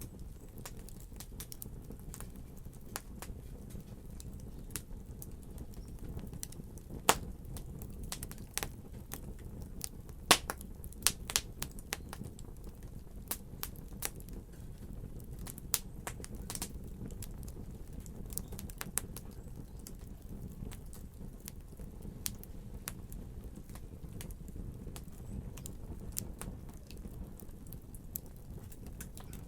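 Wood fire crackling: a steady low rumble with scattered sharp pops, busiest between about a quarter and two-fifths of the way in.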